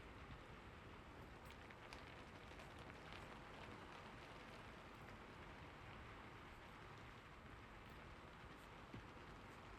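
Soft, steady rain falling, with scattered light drop ticks.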